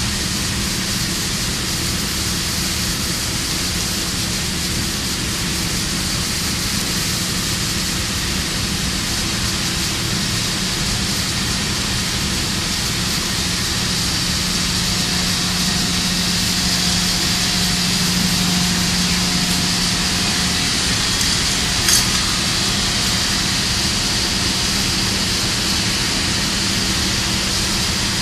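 Steady mechanical drone with a constant low hum under a broad hiss, and a single short click about twenty-two seconds in.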